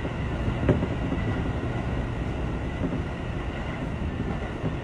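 Electric train running along the track, heard from inside the driver's cab: a steady rumble of wheels on rail, with one sharp click less than a second in.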